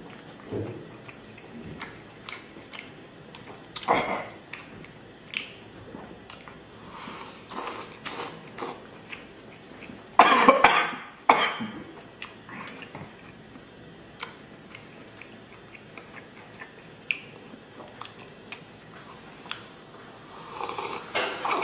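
A person eating, with chewing and mouth noises and scattered small clicks. About ten seconds in, there is a loud cough.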